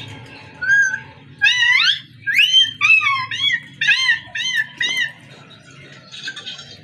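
A parrot calling: a quick run of short squawks and whistled notes that rise or arch in pitch, about eight or nine calls, falling away after about five seconds.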